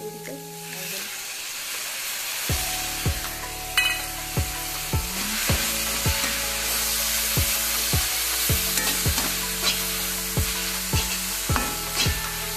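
Vegetables sizzling in a hot wok as a perforated metal spatula stirs them; the sizzle grows louder about a second in, just after tomato puree is tipped into the pan. Background music with a steady beat comes in about two and a half seconds in.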